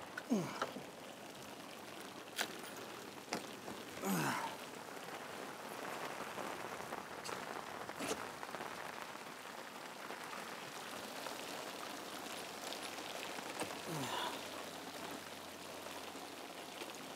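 Heavy rain falling steadily on the boat and water, an even hiss. A few sharp knocks and a few short sounds falling in pitch break through it.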